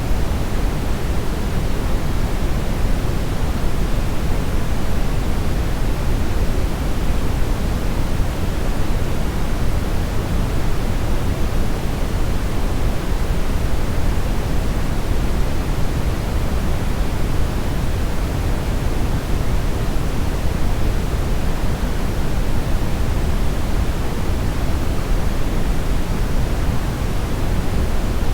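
Steady brownish noise: an even, unchanging rushing hiss weighted heavily toward the low end, with no distinct events.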